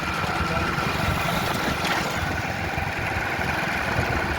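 An engine idling steadily, with a low rumble and a steady whine over it.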